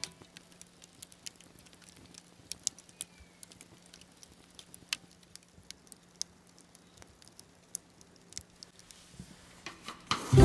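Wood campfire crackling quietly, with irregular sharp pops and snaps scattered throughout.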